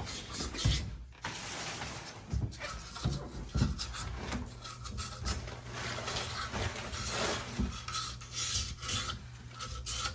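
Sandpaper rubbing by hand on the metal barrel of a mixer tap part, a run of irregular scraping strokes scouring off deposits.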